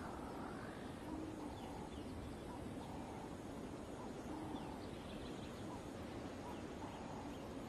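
Faint bush ambience: scattered short bird calls repeating over a steady low background hiss.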